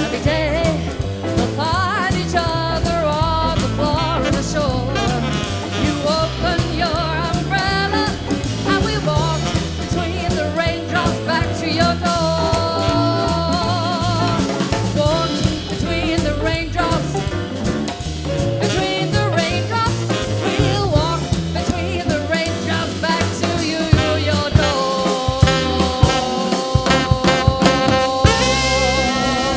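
Live jazz sextet of piano, bass, electric guitar, drums and saxophone playing an upbeat swing number. From about twenty-five seconds in the band holds long notes under a run of sharp drum hits.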